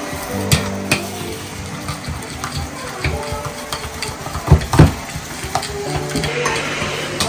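Kitchen clatter: utensils knocking and scraping against pots and dishes, with background music. The loudest knocks come about four and a half seconds in.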